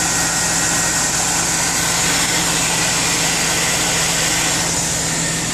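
2003 Cadillac Escalade's 6.0-litre V8 idling steadily, heard close up in the engine bay, with a steady hiss over the engine note.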